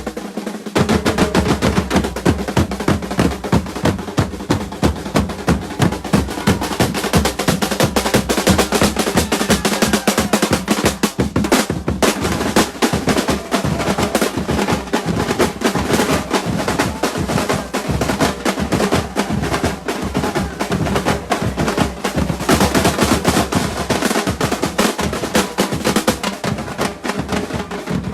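Live Afro-Cuban rumba percussion: a drum ensemble playing a fast, dense, continuous groove.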